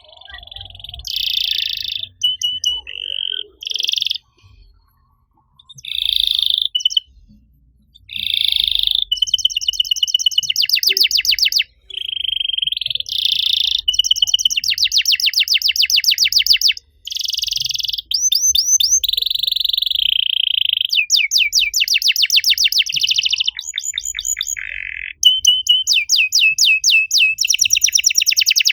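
Domestic canary singing: short separated phrases at first, then long rolling trills of fast repeated notes that run almost without a break.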